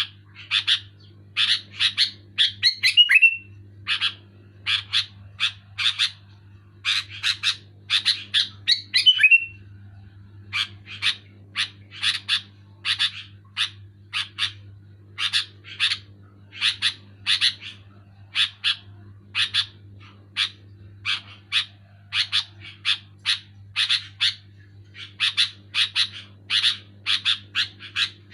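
Sooty-headed bulbul (kutilang) singing loudly and continuously: a fast run of short, clear notes in quick clusters, with a brief gliding note twice in the first ten seconds. A low steady hum runs underneath.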